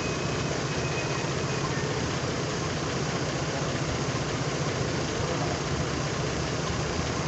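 Mercedes-Benz C350 4MATIC engine idling steadily with the air conditioning switched on, while the A/C system is being charged with refrigerant.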